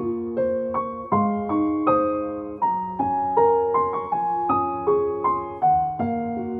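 Gentle solo piano music: single notes and soft chords struck one after another, each ringing and fading.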